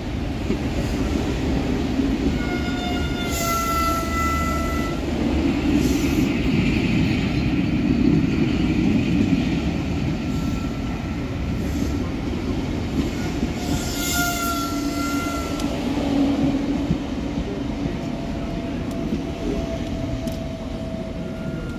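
A train running at the platform with a steady rumble, and a high, ringing tone sounding about three seconds in and again about fourteen seconds in.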